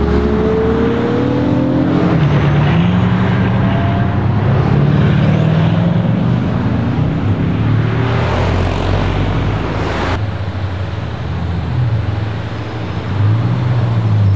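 Several supercar engines running on the move, among them the Bugatti Chiron Pur Sport's quad-turbo W16, rising in pitch as they accelerate in the first couple of seconds and then running on steadily, with a fresh rise near the end.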